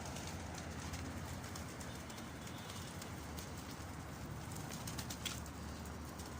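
A flock of domestic pigeons cooing, with scattered faint taps and clicks.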